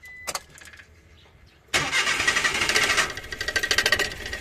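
Suzuki Every DA64W's K6A three-cylinder engine cranking on the starter for about two and a half seconds, then settling to a steady run near the end. It is hard starting, which the mechanic suspects comes from a dirty camshaft position sensor.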